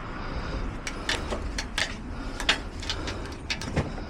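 A series of irregular light clicks and taps over a low background hum.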